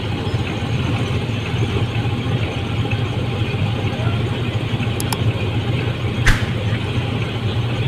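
Combine harvester's diesel engine running steadily, with two light clicks about five seconds in and a sharper knock a second later.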